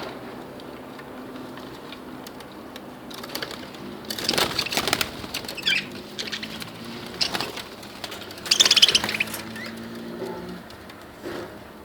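Budgerigars chirping and fluttering in short loud bursts: one about four seconds in, a brief one near seven seconds, and the loudest at about eight and a half seconds.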